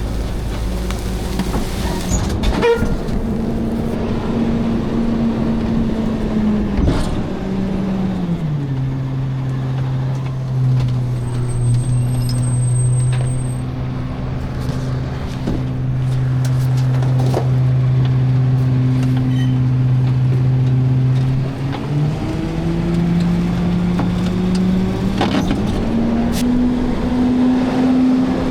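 Garbage truck engine running. Its pitch drops about eight seconds in and holds low, then climbs again a little past twenty seconds, with a few clanks and knocks along the way.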